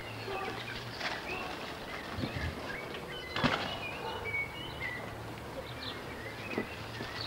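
Garden birds chirping and singing in short scattered calls, over a steady low hum. A single sharp knock about three and a half seconds in.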